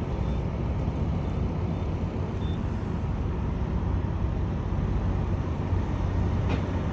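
Steady low rumble of an idling diesel semi-truck engine at a fuel island, with a few faint short beeps from the fuel pump's keypad as a number is typed in.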